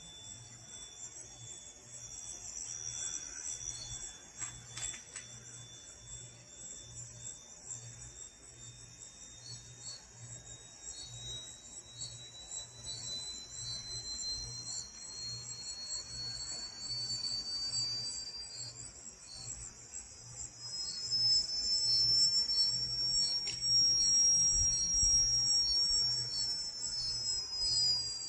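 Crickets chirping steadily at night, with a faint low hum that pulses about once a second and a thin whistling tone that slowly rises in pitch and falls away near the end. The hum is the unexplained noise heard in the sky, and it grows louder about three quarters of the way through.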